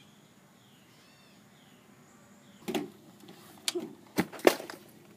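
Faint bird chirps, a few short calls in the first half. Then a handful of sharp knocks and clicks, loudest about four seconds in.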